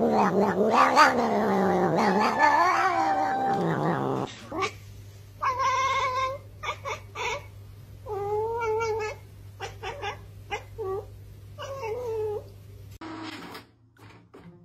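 A domestic cat giving a weird, long, wavering yowl that bends up and down in pitch for about four seconds. Then come several shorter cat calls, a second or less each, with pauses between them.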